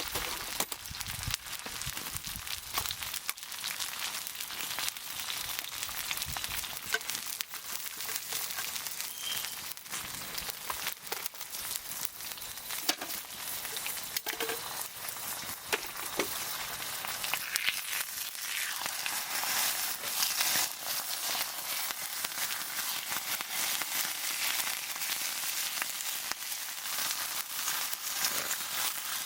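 Wood campfire crackling and hissing: a dense, steady hiss peppered with sharp pops and snaps.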